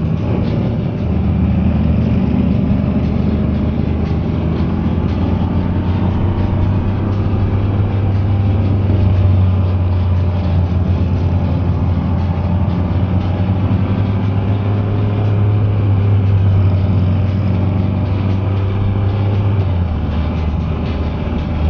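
A Can-Am Spyder three-wheeled motorcycle's engine running at a steady low speed, a continuous low drone with rushing noise, among other motorcycles' engines. The drone eases slightly near the end.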